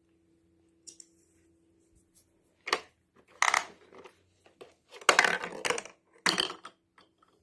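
Hard plastic toy parts clattering and knocking together as they are handled, in a few short bursts of clicks and rattles with gaps between them.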